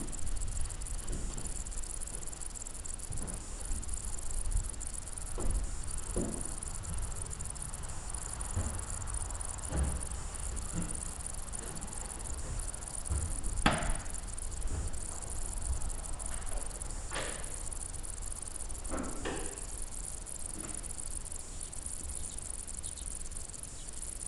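Steady high-pitched insect chirring, with scattered short knocks and clicks (the loudest about fourteen seconds in) and a low background rumble; no engine is running yet.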